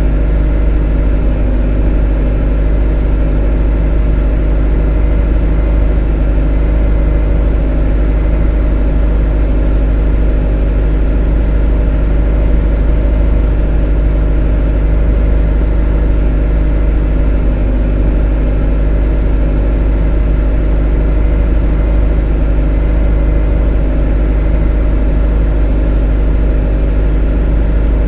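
A motor running steadily at a constant speed: a deep, even drone with a stack of steady hum tones, unchanging throughout.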